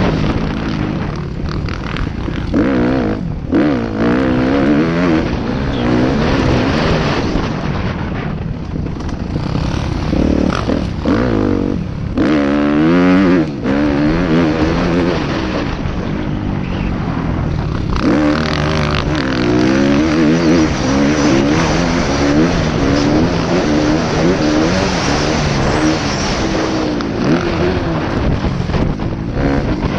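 Motocross bike engine revving hard and backing off over and over, its pitch climbing and dropping as it is ridden round a dirt track.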